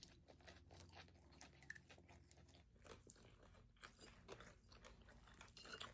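Faint crunching and chewing of crispy boneless fried chicken in kkanpung sauce: a stream of small, quiet crunches.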